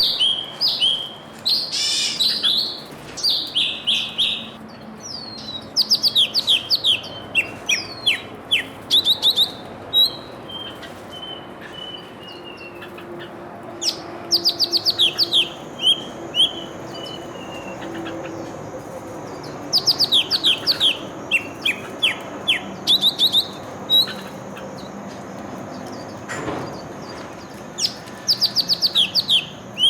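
Small songbirds chirping and singing, in repeated quick runs of short, high, falling notes with brief pauses between them.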